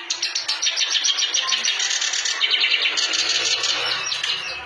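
Kerak basi (clamorous reed warbler) singing a rapid, continuous chattering song of fast, harsh, high notes.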